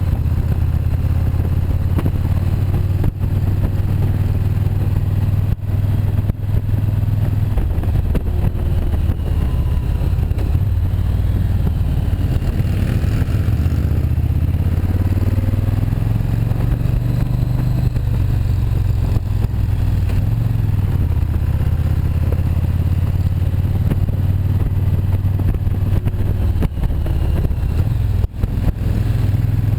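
Motorcycle engine running steadily under way, with the engine note shifting down and back up about halfway through.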